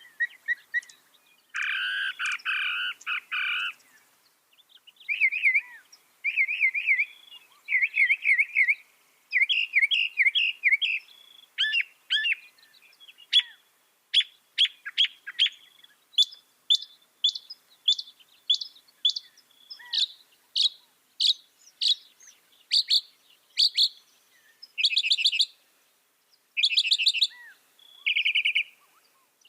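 Mockingbird singing a long run of varied phrases, each repeated a few times before switching: a harsh buzzy phrase, then looping warbles, then a long series of sharp high notes about two a second, ending in short buzzy trills.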